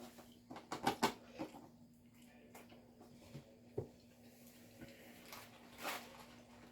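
Scattered clicks, taps and light knocks of food and packaging being handled while eating, with a quick cluster about a second in and a short rustle near the end.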